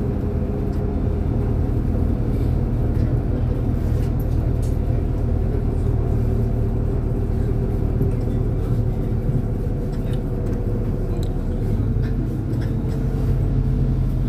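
MAZ-203 city bus heard from inside the passenger cabin while driving: a steady low engine drone with road rumble and light rattles of the body and fittings.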